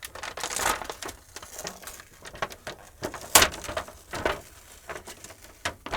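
Handling clatter of LED backlight strips being sorted through: scattered clicks and rustling, with one sharper knock about three and a half seconds in.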